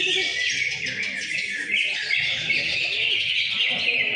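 Several caged green leafbirds (cucak ijo) singing at once in competition, a dense, unbroken tangle of overlapping whistles and trills.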